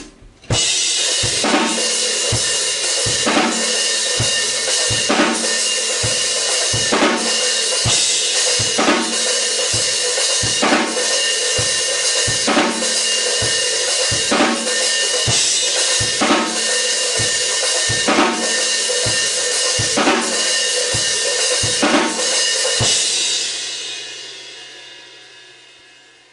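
Acoustic drum kit playing a steady beat: a constant wash of cymbals and hi-hat over evenly spaced kick and snare hits. The playing stops about 23 seconds in and the cymbals ring out and fade.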